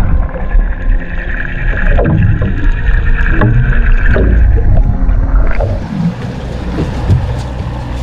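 Noise aboard a small fishing boat at sea: a steady low rumble with scattered knocks, the sound changing abruptly about five and a half seconds in.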